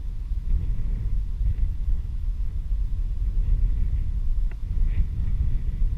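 Wind rumbling on the microphone during a bike ride, a low, uneven buffeting, with a brief click about four and a half seconds in.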